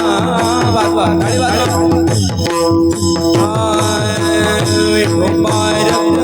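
Kirtan music: a mridang drummed in a fast, steady rhythm under a held harmonium-like drone note, with a wavering melody line above.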